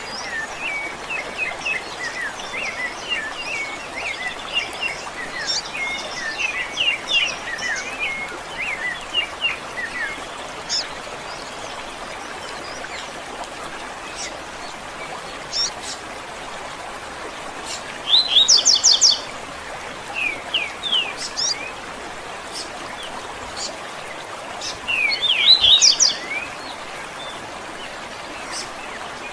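Several songbirds calling and singing over a steady background hiss. Busy chirping fills the first ten seconds, with two louder bursts of quick descending notes in the second half.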